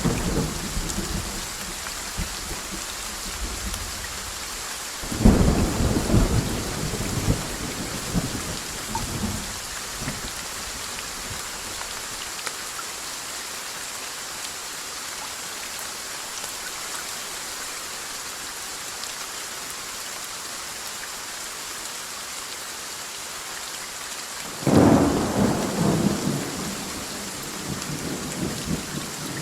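Steady heavy rain with two loud rolls of thunder, one about five seconds in that rumbles on for several seconds, and another near the end; a thunder roll is fading out right at the start.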